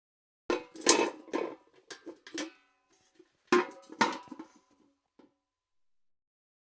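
Steel bucket clanking: about five knocks in quick succession, then two more louder hits a second later, each with a short metallic ring.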